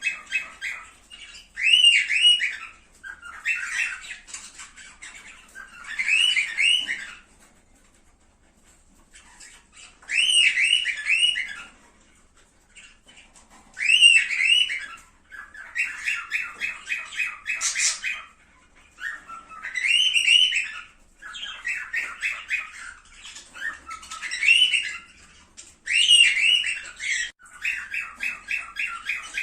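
Cockatiels calling: bursts of rapid chattering chirps alternate with short rising-and-falling whistled notes, phrase after phrase, with a couple of short pauses.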